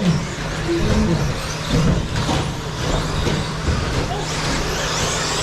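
Several electric 1/10-scale 2WD stadium trucks racing, a steady mix of motor whine and tyre noise with a few short knocks, and faint rising whines near the end as they accelerate.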